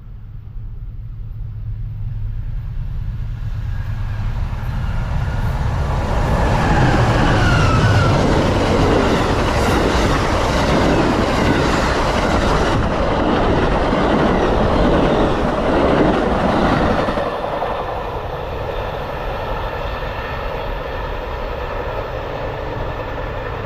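A train passing: the rumble and rail noise build over the first several seconds, are loudest through the middle, then ease to a steadier running noise.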